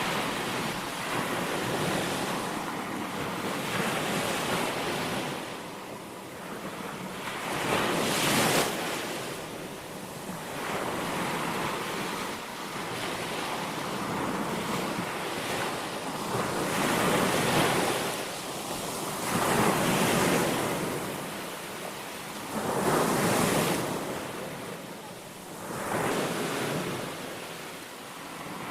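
Small waves breaking and washing onto a sandy shore, the surf rising and falling every few seconds, with wind on the microphone.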